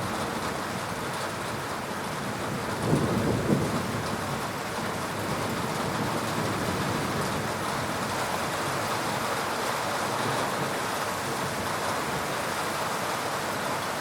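Steady heavy rain falling, with a short, low rumble of thunder about three seconds in.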